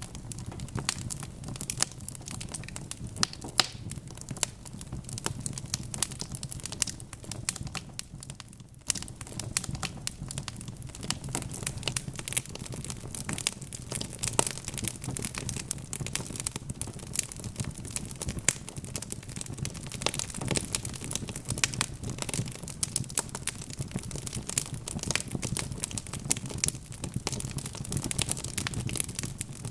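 Log fire in a fireplace crackling: dense, irregular sharp pops and snaps over a low, steady rumble of the flames, briefly quieter about eight seconds in.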